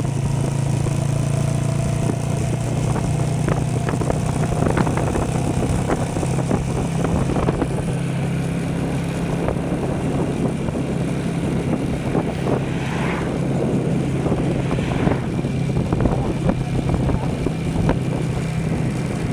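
An engine running steadily: a constant low hum with irregular clatter and knocks over it.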